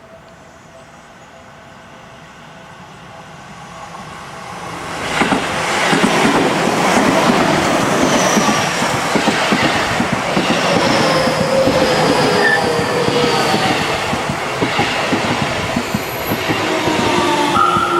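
Seibu 30000 series electric train pulling into a station: a rumble that swells from about four seconds in and becomes loud, with rhythmic clacks of wheels over rail joints and descending whines as it brakes. A steady high squeal sets in near the end as it slows.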